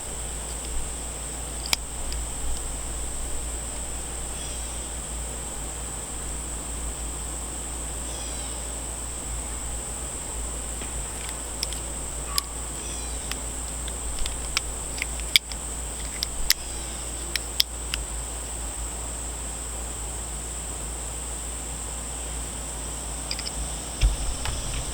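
Scattered small sharp clicks of a Leatherman Sideclip multitool being handled, its blades and tools opened and snapped shut, most of them in a cluster in the middle of the stretch and a few near the end. Under them runs a steady high-pitched whine with a hiss and a low hum.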